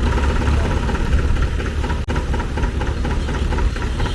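Vintage tractor engine running steadily, with a sharp, momentary dip in the sound about two seconds in.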